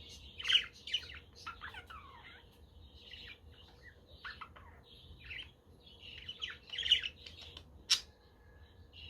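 Budgerigars chirping in a busy flock, with many short, varied calls overlapping. The loudest calls come about half a second in and around seven seconds, and there is a single sharp, click-like note about eight seconds in.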